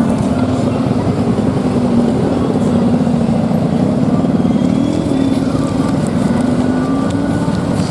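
Roadside street traffic with a motor engine running close by; its pitch rises briefly about five seconds in, then holds steady.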